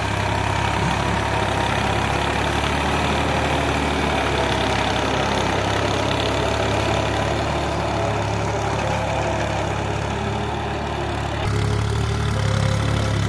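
Tractor engine running steadily with a low, even hum; the sound changes and grows a little louder about eleven and a half seconds in.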